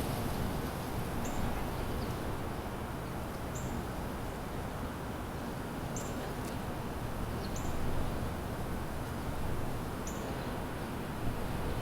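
Small songbird giving short, high chirps that drop in pitch, about five spaced roughly every two seconds, over a steady low background rumble of the surroundings.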